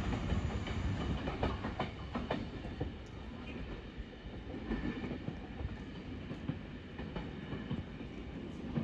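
DSB IC3 (class MF) diesel trainset running away down the track, its noise fading soon after the start and then carrying on at a lower level, with scattered clicks from the wheels on the rails.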